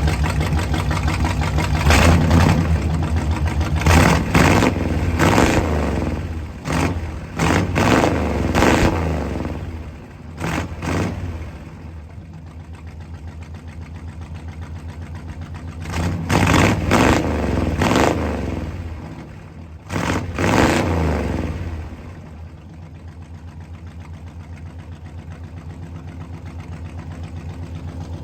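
Chevy small-block V8 running through freshly fitted straight-pipe exhaust that exits both sides. It is revved in a string of quick blips through the first ten seconds or so, drops back to an uneven idle, is blipped again a few more times in the middle, then settles to idle near the end.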